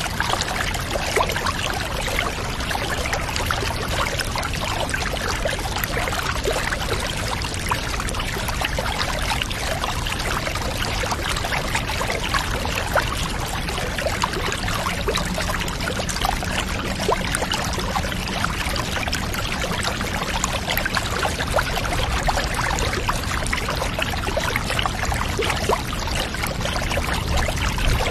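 Steady running water pouring and trickling, as into a bath, a continuous even splashing with no pauses.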